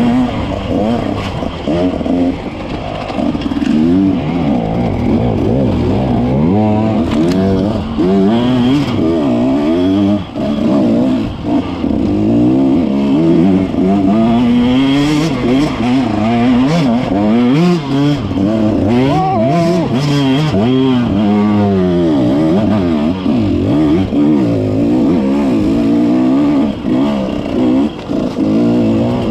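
Dirt bike engine revving up and down over and over as it is ridden, the pitch climbing and dropping every second or two with the throttle.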